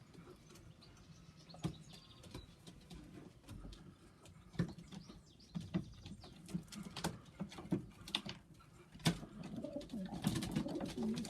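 Domestic pigeons cooing in a loft, the cooing growing louder and busier near the end, with scattered sharp taps and clicks throughout.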